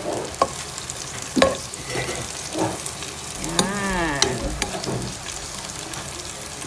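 Bell peppers sizzling in hot oil in a wok while being stirred, the spatula clacking against the wok now and then.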